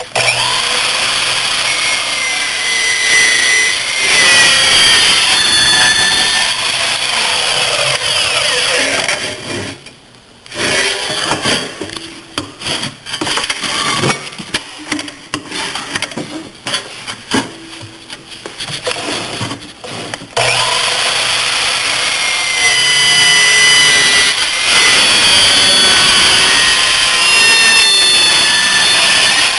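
REXON metal-cutting sliding miter saw running and cutting metal, with shifting high-pitched ringing tones as the blade works through the stock. After about nine seconds the sound drops away and turns choppy and uneven for about ten seconds, then a second long, loud cut follows.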